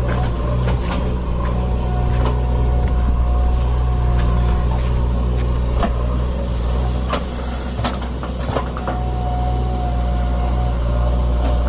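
Diesel engine of a JCB 3DX backhoe loader running steadily, with a higher whine that comes and goes twice. Scattered sharp knocks and clanks occur, most of them in the second half.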